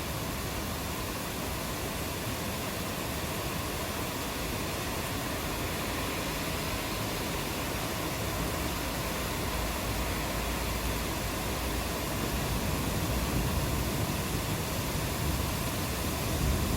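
Steady hiss of rainfall. A low rumble of thunder builds slowly over the second half.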